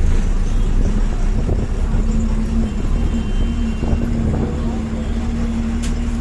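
Bus running along a rough road: a steady low rumble with a constant engine hum.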